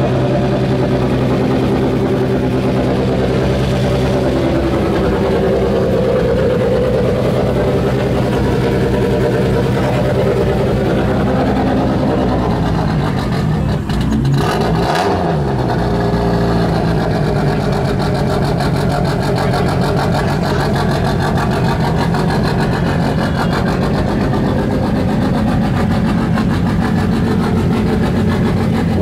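Drift car's engine idling steadily, loud and close. About halfway through its pitch dips briefly and comes back up before settling into the steady idle again.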